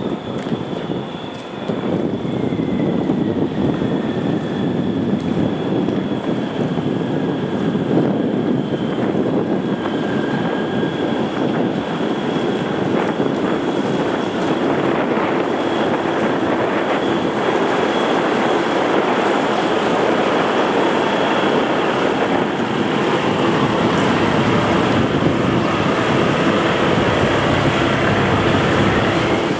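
Boat engine running steadily on the water, with wind noise over it. A high whine falls slowly in pitch over the first ten seconds.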